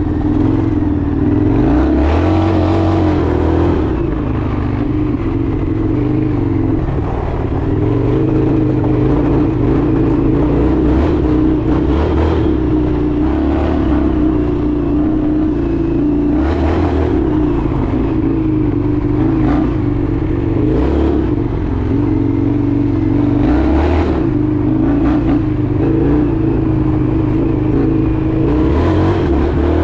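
Indian FTR 1200 motorcycle's 1203 cc V-twin engine running steadily while riding, its pitch holding fairly even. There are several brief, louder rushes of noise over it.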